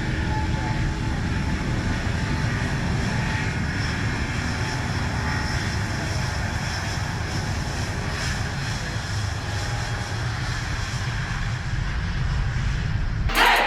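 Airbus A350-900's Rolls-Royce Trent XWB turbofan engines running steadily, a broad jet noise with faint high whining tones over it.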